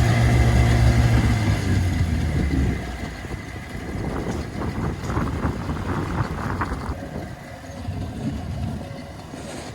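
Engine idling with a steady low hum that cuts out or fades about two and a half seconds in, followed by quieter irregular clatter.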